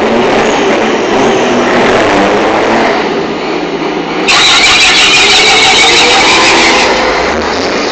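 Formula Truck racing trucks' diesel engines running and revving. About four seconds in the sound suddenly gets louder, with a strong hiss added over the engine noise.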